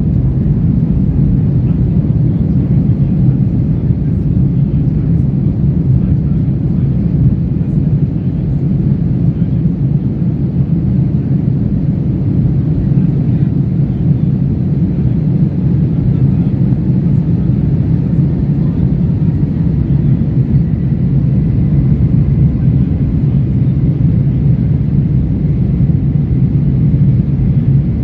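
Steady cabin noise inside a Korean Air airliner: an even, low rumble of the engines and airflow, with a faint high steady tone in the second half.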